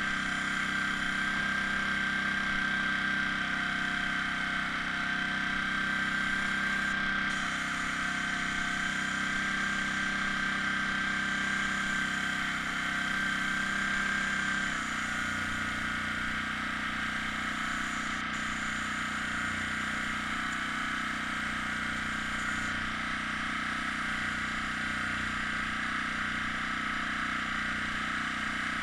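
Air compressor for an airbrush running steadily with a constant motor hum and a thin high whine; about halfway through the whine stops and the hum settles to a slightly different pitch.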